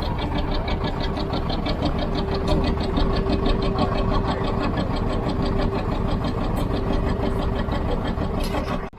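An engine running steadily, with a rapid, even ticking and a steady hum; it cuts off suddenly near the end.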